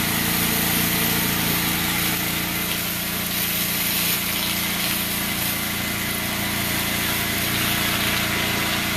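Generator engine running loud and steady, with a steady hiss over it.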